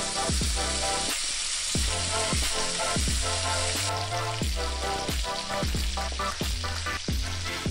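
Paua (blackfoot abalone) frying in foaming butter with garlic cloves in a pan, a steady sizzle. Under it, background music with a thumping bass beat.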